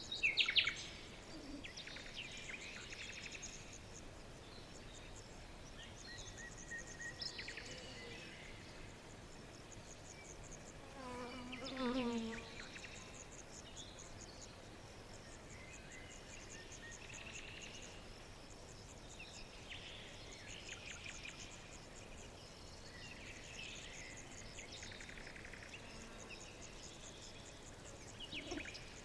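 Forest ambience of birds calling over repeated bursts of rapid, high, insect-like chirping. A loud high call comes just after the start, and a lower call that steps downward in pitch comes about twelve seconds in.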